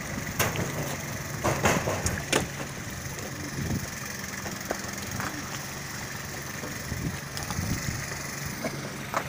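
An engine idling steadily, with a few sharp knocks in the first two and a half seconds.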